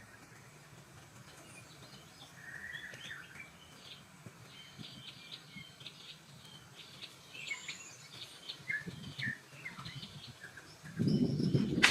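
Small jungle birds chirping and calling, including a short whistled note about two and a half seconds in. Near the end, a louder low rough noise with knocks cuts in.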